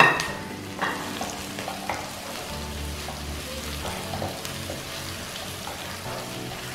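Sliced onions, curry leaves and green chillies sizzling in hot oil in a wok, stirred with a wooden spatula that scrapes and knocks against the pan. The loudest knock comes right at the start, with smaller ones about a second and two seconds in.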